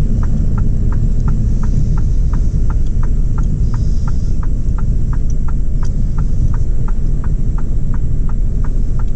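Six-cylinder truck diesel engine running with a steady low rumble heard from inside the cab, with an indicator ticking about three times a second. The engine management light is on and the truck feels to the driver as if it is running on four of its six cylinders.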